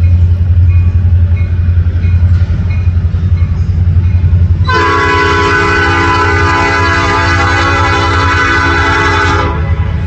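Heavy diesel freight train rumbling past, with one long blast of about five seconds, starting about halfway through, on the lead Illinois Central SD70 locomotive's Nathan Airchime P5 five-chime horn.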